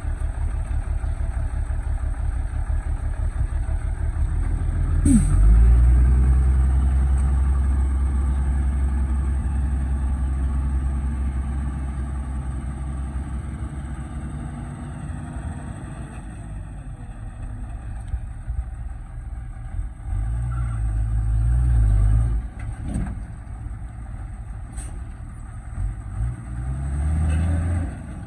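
A vehicle engine running with a low, pulsing rumble. It revs up sharply about five seconds in and slowly eases off, then revs again briefly around twenty seconds and near the end.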